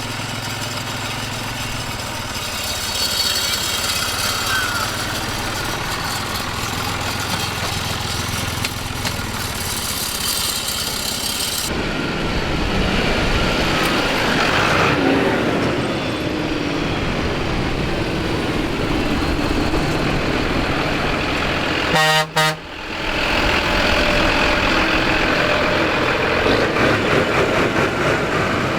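Vintage tractor and vehicle engines running, the sound changing abruptly about twelve seconds in and again about twenty-two seconds in, where a short, loud horn blast sounds.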